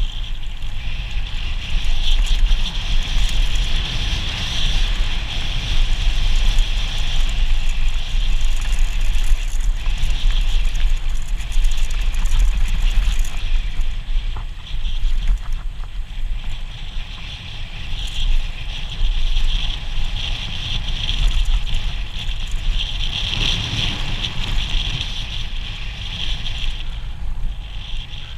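Wind buffeting a rider-mounted camera microphone over the rattle and tyre rumble of a mountain bike descending a rough trail, steady and loud throughout.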